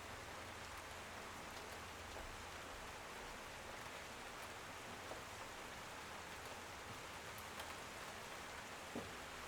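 Steady rain falling: an even hiss of rain, with a few louder drops ticking now and then.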